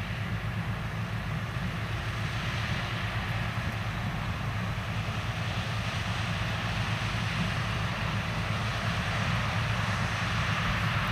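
Large diesel farm machinery running steadily at work: a constant engine hum under a steady rushing noise that grows a little louder toward the end.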